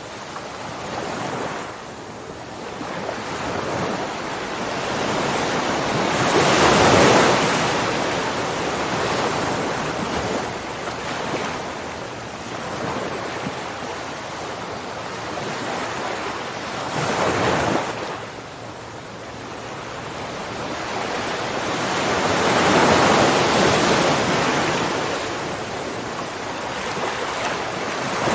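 Ocean waves surging in and washing back, a rushing noise that swells and fades every several seconds, the loudest surge about a quarter of the way in.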